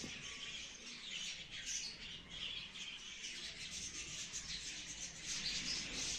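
Small birds chirping continuously, many quick overlapping high chirps.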